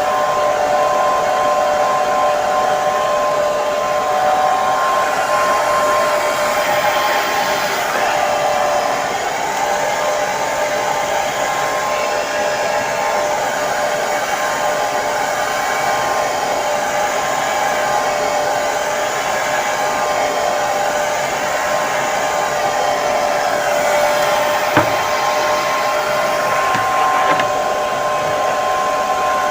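Hair dryer running steadily, an even rush of blown air with a constant motor whine. A single short click sounds near the end.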